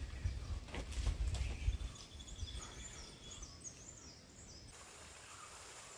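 Forest ambience. A low rumble fills the first two seconds, then small birds in the treetops give high, thin, quickly repeated chirping notes, which stop abruptly about three-quarters of the way in, leaving faint background hiss.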